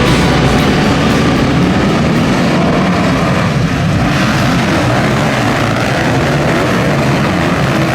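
Motocross bike engines revving at race speed, loud and continuous.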